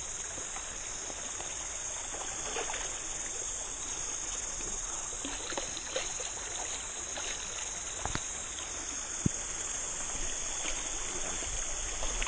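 Steady high-pitched chorus of cicadas, over the even rush of a stream.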